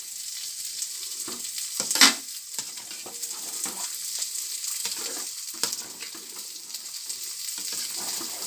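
A pot of rice dumplings simmering in jaggery-and-coconut syrup: a steady bubbling hiss with scattered scrapes and knocks of a utensil against the pot, the loudest about two seconds in.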